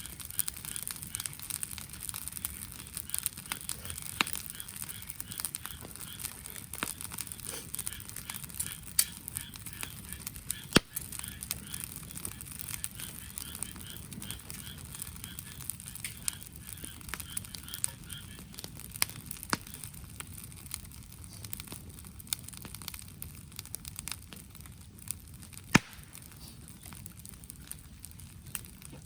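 Wood fire crackling, with irregular sharp pops over a steady hiss; two pops stand out, about eleven seconds in and again near the end.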